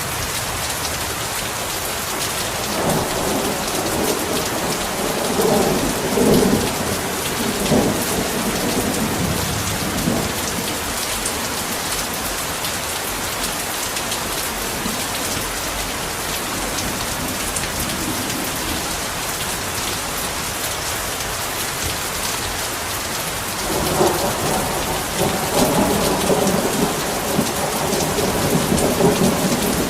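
Heavy rain falling steadily, with rolling thunder rumbling twice: once a few seconds in and again in the last few seconds.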